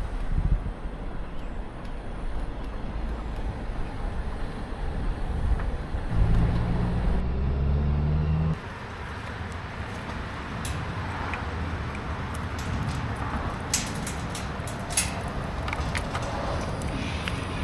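Vehicle road noise: a steady low rumble, with a louder low hum from about six seconds in that stops suddenly about two and a half seconds later, then scattered clicks.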